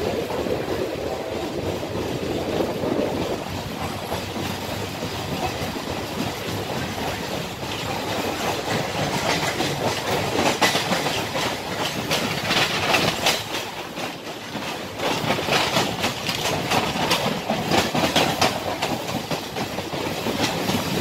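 Passenger train running along the line, heard from the open coach door: a steady rumble and rush of air, with the wheels clicking over rail joints. The clicking is thickest in the middle and later part.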